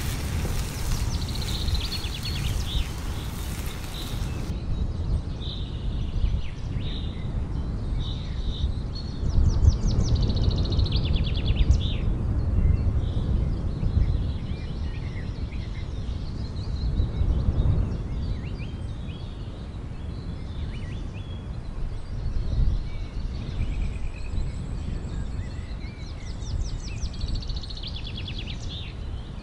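Steady low rumbling background noise, with birds chirping and giving short rapid trills now and then.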